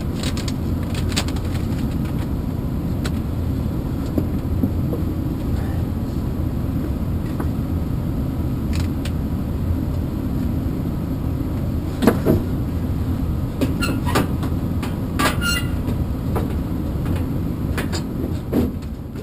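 A steady low mechanical rumble of running machinery, with a few sharp knocks and clicks in the second half, cutting off at the end.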